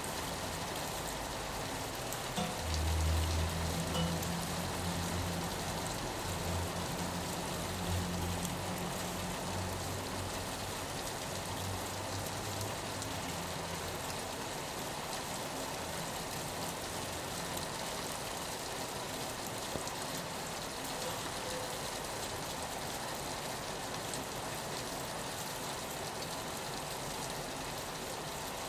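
Steady rain falling on a window pane, an even hiss throughout. A low rumble comes in about two and a half seconds in and fades away by about thirteen seconds.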